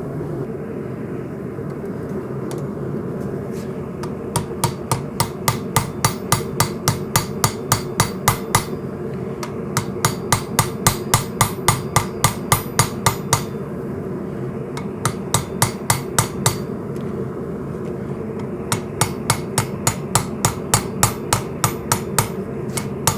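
Hammer blows forging the bolster of a coil-spring steel knife blank, sharp ringing strikes about four a second in several runs with short pauses between. A steady rushing noise runs underneath.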